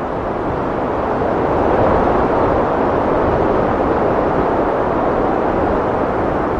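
Heavy wind blowing as a steady rush of noise, swelling about two seconds in and then holding.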